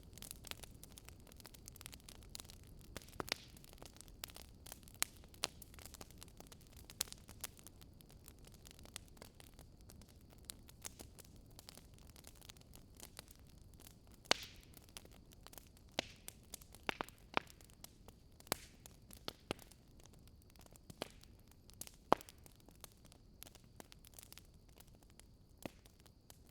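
Wood fire crackling in a fireplace: irregular sharp pops and snaps, a few louder than the rest, over a soft low hiss.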